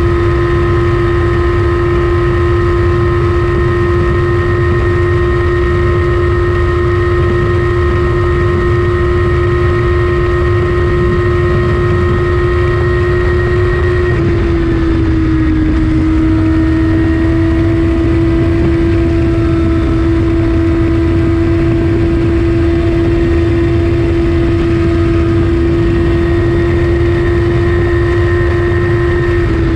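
Kawasaki ZX14R inline-four with an Akrapovic Racing Line exhaust, heard close at the pipe, holding a steady high-rpm drone at speed. The pitch eases slightly about halfway through, then holds again, over a constant low rumble of wind and road.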